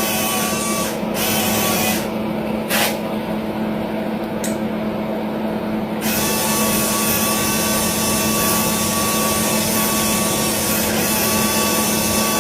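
Small electric motor and drive of a radio-controlled construction machine running with a steady whine that holds one pitch. The hiss above the whine drops away from about two seconds in and comes back about halfway through, with two short clicks while it is gone.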